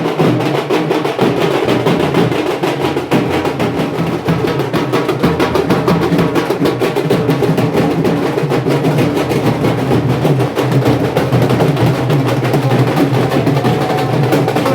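Loud music dominated by fast, continuous drumming, the strikes coming many times a second without a break.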